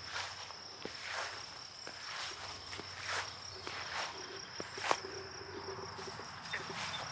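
A steady high-pitched insect drone, with footsteps and rustling on the ground about once a second and a few sharp ticks.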